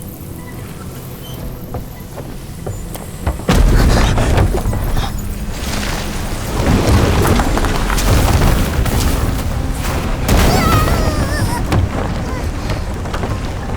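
Dramatic animation sound effects: a low rumble breaks into a sudden deep boom about three and a half seconds in, then heavy rumbling that swells again several times. Wavering whistling tones come in near the end.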